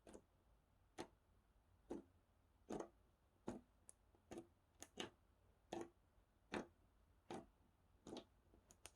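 Slime being pressed and worked by hand, giving a string of short, sharp clicks and pops, about one a second.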